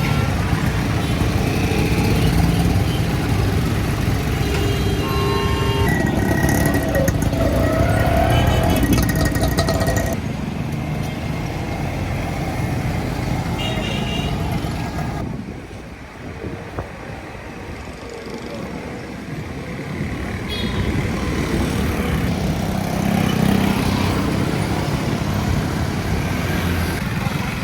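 Busy city street traffic: engines running steadily, with several short horn toots and background voices.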